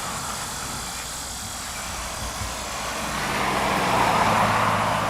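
A motor vehicle's engine running steadily. It grows louder about three seconds in, peaks near the end, then begins to fade, like a vehicle passing close by.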